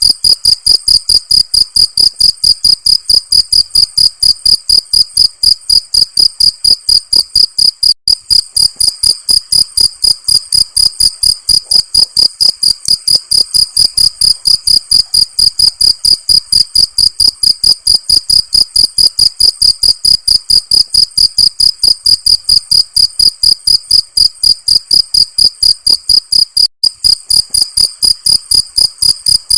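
Cricket chirping in a fast, even rhythm of about four high-pitched chirps a second, with two very brief dropouts.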